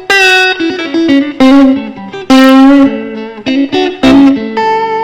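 Fender Stratocaster electric guitar playing a blues phrase of picked single notes, several held and left ringing.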